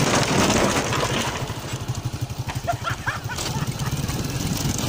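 Small motorcycle engine running at low speed, a fast even putter. A few short, high chirps sound in the middle.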